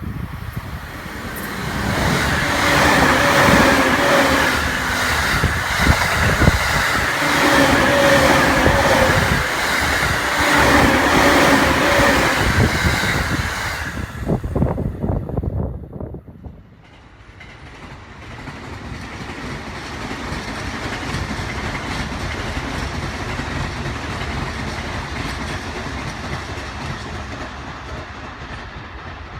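Electric commuter trains passing close by: a loud pass with a humming tone that swells and fades three times and drops away about sixteen seconds in, then a second, quieter train running past.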